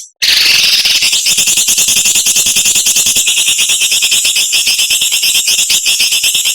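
Songbird's harsh, rasping rapid-fire call (the 'besetan' used to train cage birds), a very fast even rattle of high, scratchy strokes that resumes after a brief break just after the start and runs on unbroken.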